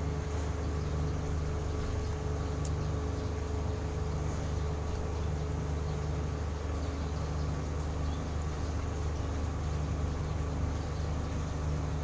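A steady low mechanical hum, like a motor or engine running, with a faint constant whine above it.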